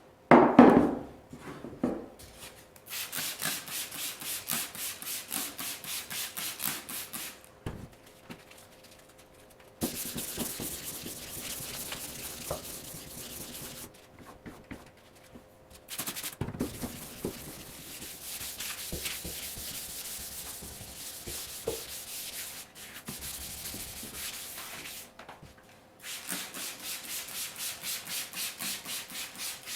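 Hand sanding: sandpaper rubbed back and forth in even strokes, about two a second, in several spells with short pauses between. A loud knock about half a second in.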